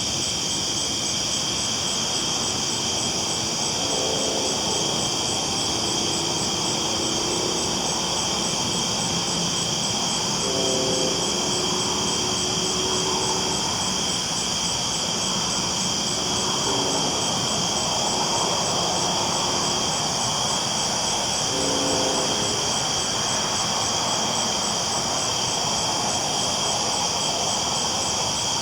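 Train rolling steadily along the tracks: a continuous, even rumble and hiss, with a short faint tone about every six seconds.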